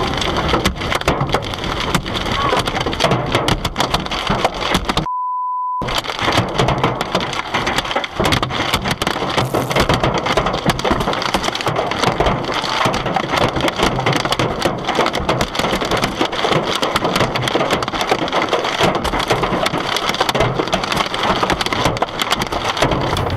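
Hailstones pelting a car, a dense, unbroken clatter of sharp hits on the body and glass. A short beep tone cuts in about five seconds in.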